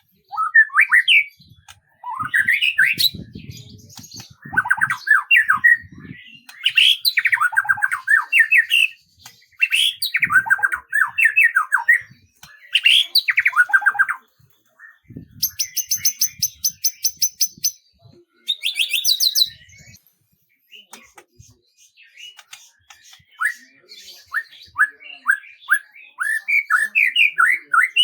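Songbird singing in phrases of rapid chirping notes, with a fast buzzy trill a little past the middle, then a few seconds' pause before a long run of quick repeated notes.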